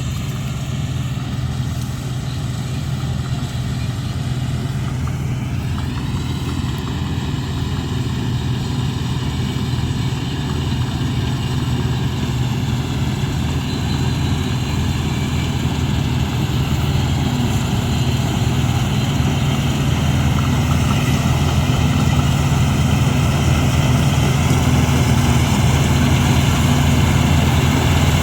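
Engine of a wheat-harvesting machine running steadily, growing gradually louder.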